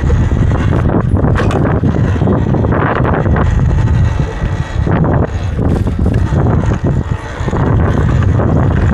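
Wind buffeting the microphone while riding an electric dirt bike along a trail, with a dense rumble and a few sharp knocks from bumps along the way.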